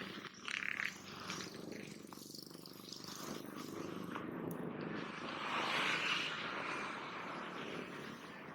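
Wind rumbling on the microphone and road noise while riding a bicycle along a road, swelling to its loudest about six seconds in.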